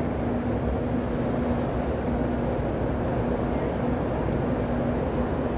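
A car ferry's engines drone steadily underway: a constant low rumble with an even hum running through it.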